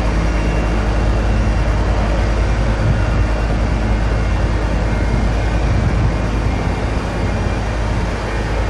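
Steady, loud, low rumble of running heavy machinery, with a constant hum of engine tones over a wash of noise.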